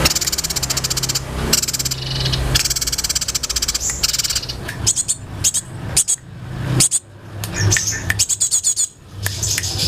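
Songbirds singing: a dense, fast-pulsed trill for the first half, then separate sharp chirps and short rapid trills.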